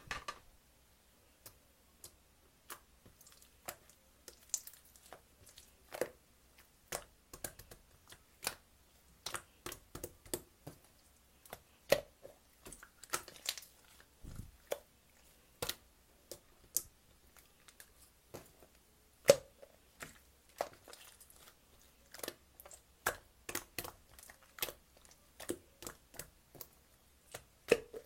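Irregular sharp clicks and small crunching noises, one to three a second, with short pauses between.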